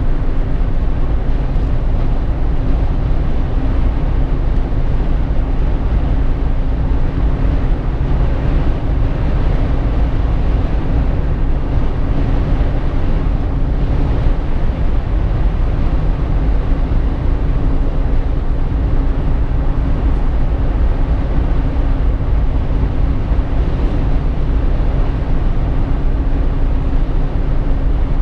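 Road noise heard inside a Jeep Wrangler JK's cabin while driving: a steady low rumble of tyres and wind with a steady low drone under it.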